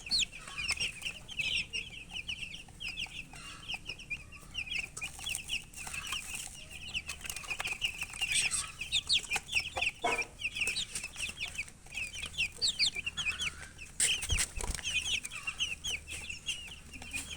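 A brood of baby chicks chirping continuously, many short, high-pitched peeps overlapping at once, with a sharp knock about three-quarters of the way through.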